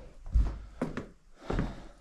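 A few dull thumps and knocks, about three in two seconds, the first the loudest.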